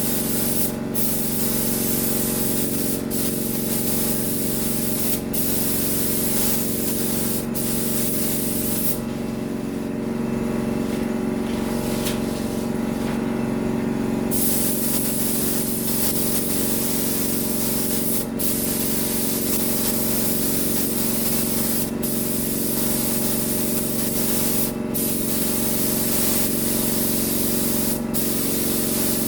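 Paint spray gun hissing as a coat of paint goes on, in long passes broken by short gaps every few seconds and a longer pause of about five seconds near the middle. A steady motor hum runs underneath throughout.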